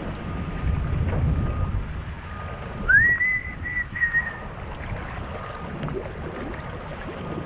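Wind buffeting the microphone in a gusting low rumble. About three seconds in, a high whistle-like squeal rises and then holds for about a second and a half.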